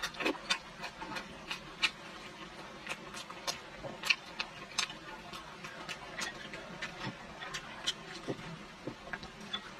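Close-up eating sounds of a person chewing boiled pork belly (garlic white meat): irregular sharp mouth clicks and smacks, about three a second.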